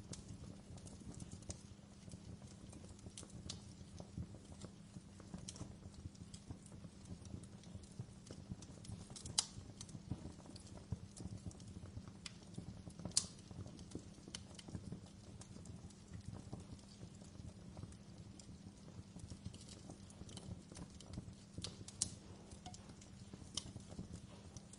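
Wood fire in a fireplace crackling: irregular sharp pops and snaps over a steady low rumble, with a few louder pops about nine, thirteen and twenty-two seconds in.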